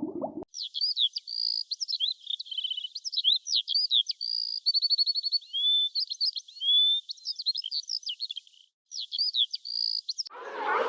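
A bird singing a varied, continuous song of quick sweeping chirps, held whistled notes and short rapid trills, with one brief break about three-quarters of the way through.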